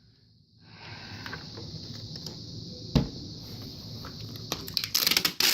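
A box fan and its packaging being handled while it is unboxed: steady rustling and scraping, a sharp knock about three seconds in, and a burst of crackling near the end.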